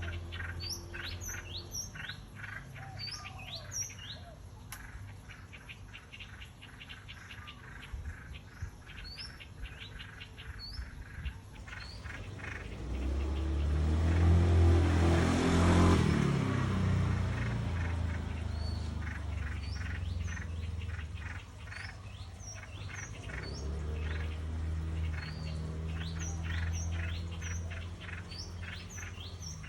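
Small birds chirping in quick, repeated series of short notes. About halfway through a low rumble swells, peaks and fades over several seconds, louder than the chirping.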